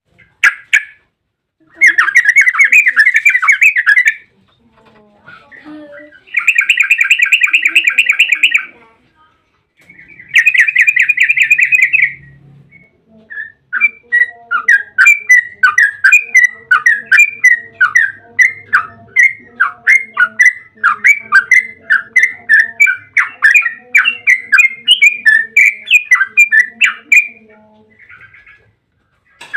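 Yellow-vented bulbul (trucukan) calling. It gives three fast chattering rolls of a couple of seconds each, then a long run of quick chirpy notes, several a second, lasting about fourteen seconds.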